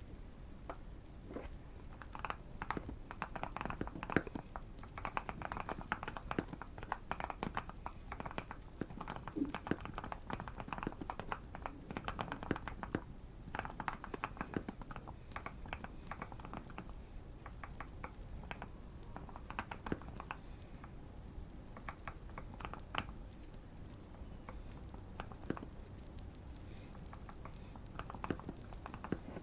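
Typing on a modded Keychron Q1 mechanical keyboard with Fierce Girl linear switches, a deep thocky sound in bursts of quick keystrokes with short pauses. The typing thins out over the last few seconds. Light fire crackling runs underneath.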